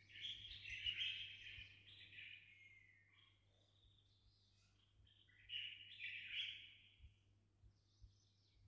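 Faint bird chirping in two spells, through the first few seconds and again about five and a half seconds in, over a low steady hum.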